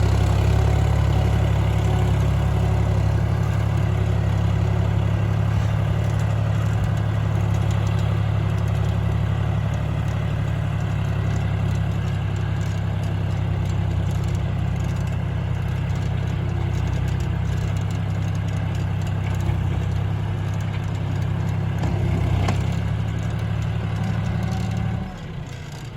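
John Deere 3510 tractor's diesel engine running steadily with a low drone, which drops away sharply about a second before the end.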